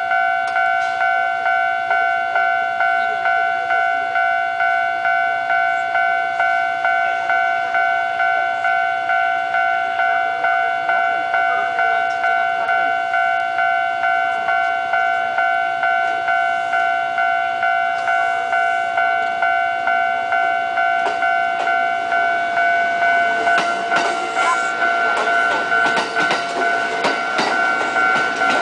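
Japanese level-crossing alarm bell dinging steadily, about one and a half rings a second. From about 23 seconds in, a train's wheels clatter past over the rail joints.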